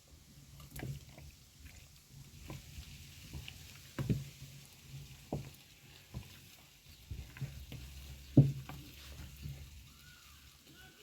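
Chicken pieces being stirred in a hot pan, a utensil knocking against the pan at irregular intervals over a faint sizzle; the loudest knocks come about four and eight seconds in.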